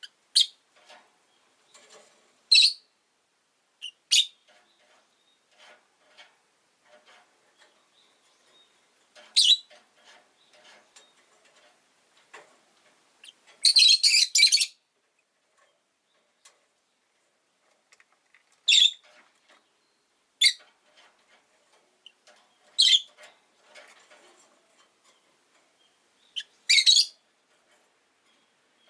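Rosy-faced lovebirds calling: loud, high-pitched single chirps every few seconds, with softer twittering between. About halfway through there is a second-long burst of rapid chatter.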